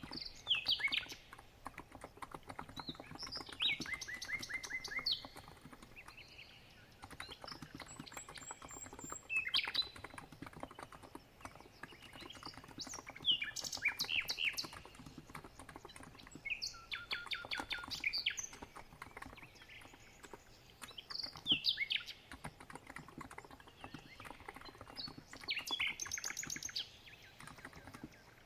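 Steady typing on a COX Empress electrostatic capacitive keyboard: a fast, continuous patter of soft key clicks. Over it, birds sing in short bursts of chirps and quick trills every few seconds, louder than the keys.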